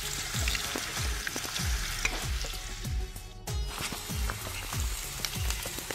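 Thin slices of bitter gourd deep-frying in hot oil: a steady sizzling hiss full of small scattered crackles and pops, dipping briefly about three and a half seconds in.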